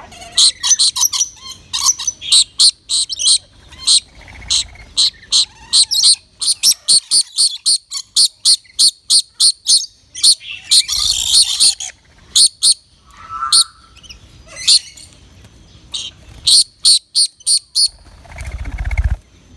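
Birds chirping: rapid, high, short chirps repeated about four times a second, broken about eleven seconds in by a harsher burst of noise and followed near the end by a brief low rumble.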